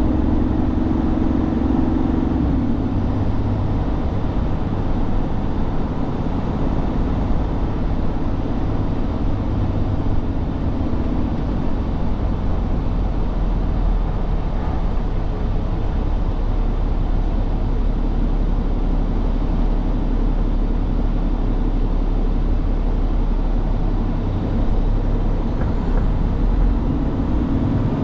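Tractor-trailer truck driving, a steady low engine and road drone whose tone shifts lower through the middle stretch and comes back up near the end.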